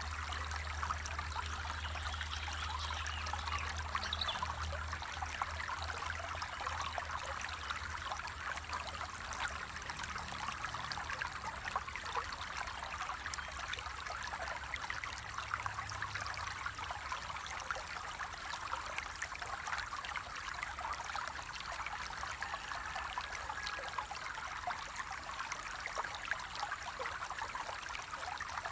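Flowing stream water: a steady rush with many small splashes and trickles.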